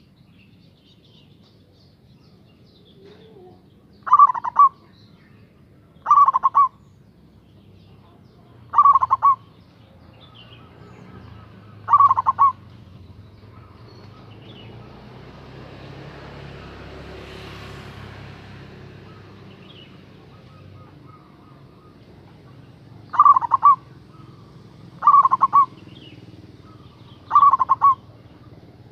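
Local Javanese zebra dove (perkutut) cooing: seven short rolling coos of about half a second each, four spaced every two to three seconds, then a long pause, then three more. Faint high chirps of other birds sit underneath.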